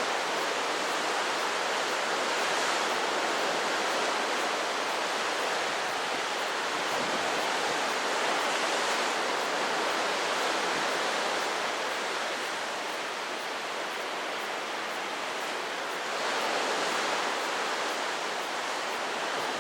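Strong typhoon wind and choppy sea making a steady rushing hiss. It dies down a little past the middle and picks up again near the end.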